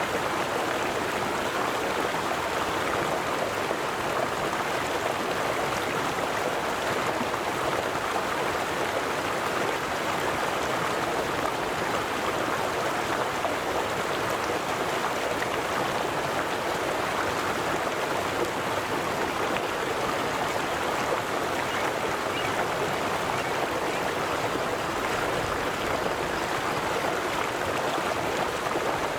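River water flowing: a steady, even rush of moving water with no change.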